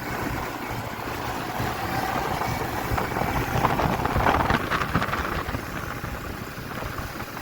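Quad bike engine running while riding over desert ground, with wind buffeting the microphone.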